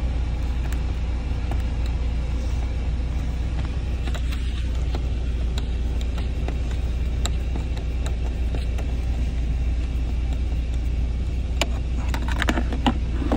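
Steady low rumble of a car engine idling, heard from inside the cabin. Over it come scattered small clicks of a screwdriver turning a screw in the plastic dashboard trim, with a quick run of clicks near the end.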